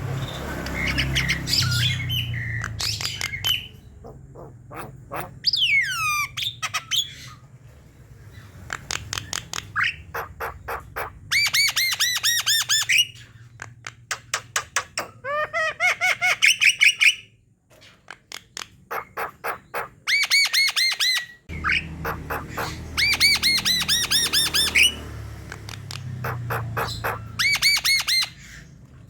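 Javan myna (jalak kebo) singing: bursts of rapid, evenly repeated chattering notes mixed with harsh squawks and a few gliding whistles, broken by short pauses. A low hum runs underneath at times.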